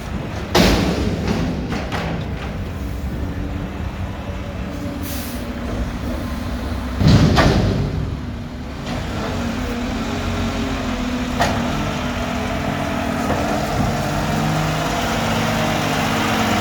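Mack garbage truck with a McNeilus front-loader body, its diesel engine running steadily while air brakes hiss: a sharp hiss about half a second in and a louder, longer one about seven seconds in, with a click near eleven seconds.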